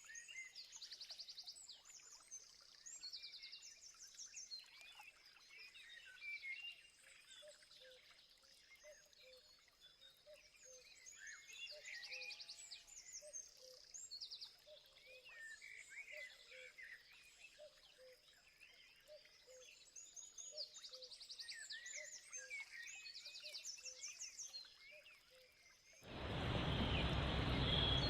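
Several wild birds chirping and trilling over a steady high tone, with a low note repeating about twice a second. About two seconds before the end a loud, steady hiss cuts in suddenly and becomes the loudest sound.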